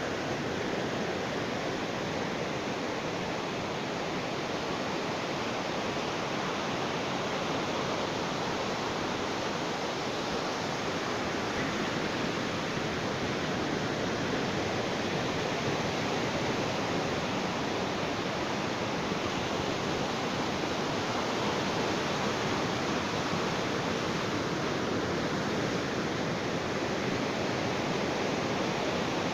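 Ocean surf washing on a beach in a continuous, even hiss, with no distinct wave surges standing out.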